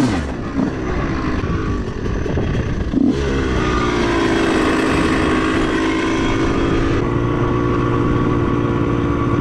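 1997 Honda CR125R's single-cylinder two-stroke engine: a rev falls away at the start, a short blip of throttle about three seconds in, then it runs at a steady pitch.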